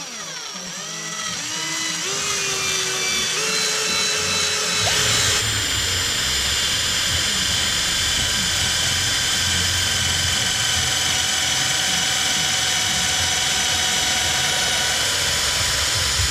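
12V cordless drill running, its motor pitch rising and falling as the trigger is worked for the first few seconds, then climbing to a steady high-speed whine.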